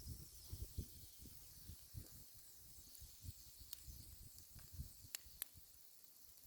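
Faint, irregular sharp cracks and soft low thuds of water-soaked blue clay being broken apart, over a steady high hiss.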